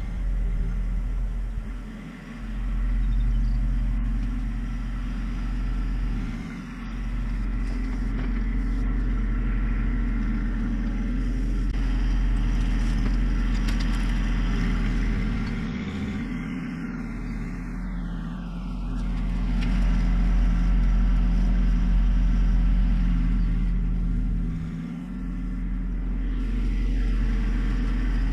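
John Deere 1025R subcompact tractor's three-cylinder diesel engine running steadily, its note dipping briefly a few times as it is worked.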